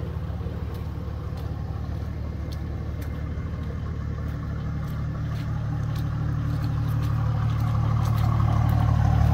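Car engine running with a steady low hum that grows gradually louder, with a few faint ticks over it.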